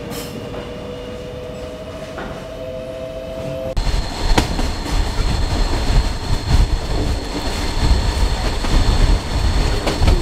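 Solar-powered electric train running: first a steady whine that rises slightly in pitch, then, after a sudden change about four seconds in, a louder low rumble of the carriage running along the track with a few sharp clicks and a faint high whine.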